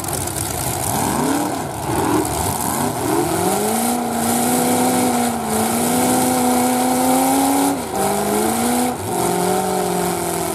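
Demolition derby car engines revving hard: several quick revs up and down, then from about three seconds in an engine held at high revs and climbing slowly for several seconds. It drops suddenly near eight seconds, climbs briefly again and settles to a lower steady run near the end.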